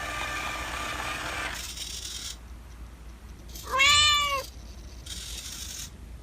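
A single cat meow about four seconds in, rising then falling in pitch, lasting under a second.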